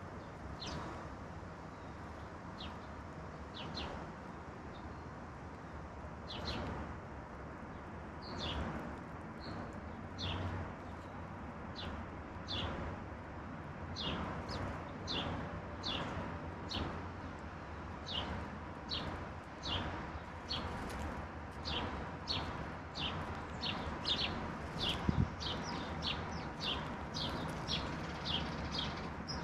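Garden birds calling with short, sharp, downward-sliding chirps, sparse at first and then coming about once or twice a second through the second half, over a steady low background rush.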